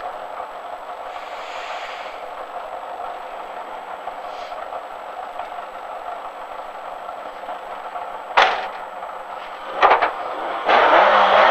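Rally car's engine idling steadily, heard from inside the cabin, with two sharp knocks about eight and ten seconds in. Near the end the engine suddenly revs up hard with a rising pitch as the car launches off the start line.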